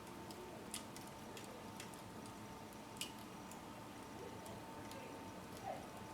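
Small open fire crackling faintly, with scattered sharp pops, the loudest about three seconds in, over a faint steady hum.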